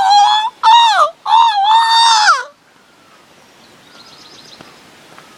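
A man's loud, shrill vocal imitation of a bird call: wavering squawks that rise and fall, ending in a downward slide about two and a half seconds in. After that, only faint outdoor background.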